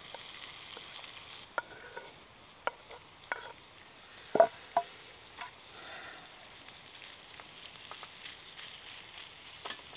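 Diced potato, pork belly and onion frying in butter in a small aluminium camping pot, with a steady sizzle that is brighter for the first second and a half and then quieter. A fork stirs the food and clicks against the pot several times, loudest about four and a half seconds in.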